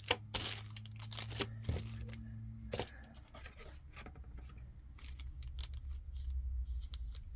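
Hands rummaging through small plastic bags of glass beads, with quick scattered rustles and clicks as the bags are pushed aside while searching for the next one.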